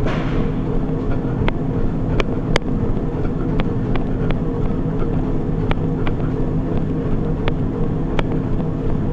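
Treadmill running: a steady motor and belt hum with a few even tones, and sharp clicks every second or so at uneven spacing.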